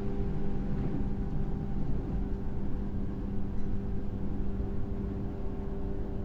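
Running sound inside a JR 103 series electric train's motor car: a steady rumble from the wheels and rails with a steady hum from the MT55 traction motors and gears, at an even speed.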